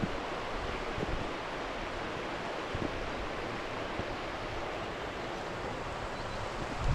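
Steady rush of a nearby waterfall, an even hiss of falling water, with a few faint low knocks.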